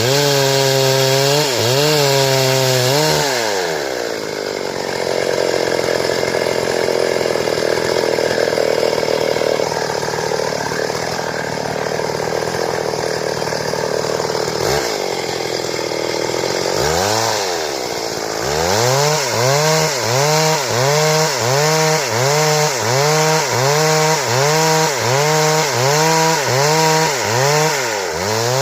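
Stihl chainsaw revved in pulses, then held at a steady pitch for about a dozen seconds, its sound rougher and noisier as it cuts through a board. Near the end the throttle is blipped over and over, a little more than once a second.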